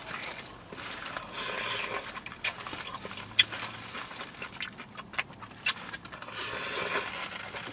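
Close-up eating sounds: chewing with wet smacks and sharp clicks, and two longer breathy sounds, about a second in and again near the end.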